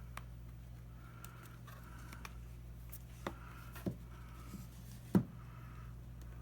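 Plastic retaining clips of a Samsung Galaxy Tab 4 8.0 being pried loose: a few sharp clicks, the loudest about five seconds in, over a steady low hum.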